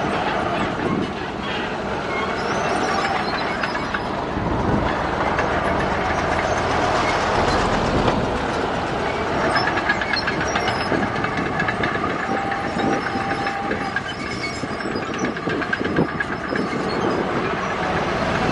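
A crawler bulldozer working, its diesel engine running steadily while the steel tracks clank, with a high squeal coming and going.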